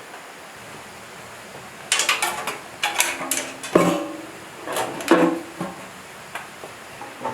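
A run of metal clanks and knocks, several with a short ringing tone, starting about two seconds in and dying away near the end: metal parts or tools being handled and struck during work on the machine.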